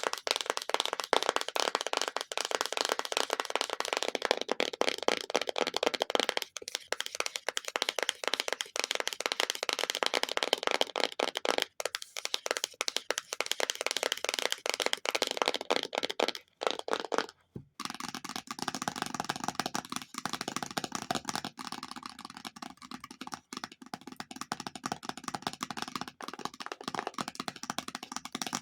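Very fast ASMR tapping on an object, a dense unbroken patter of light clicks. After a brief pause about two-thirds of the way through, the tapping resumes with a different, thinner tone, as on another surface.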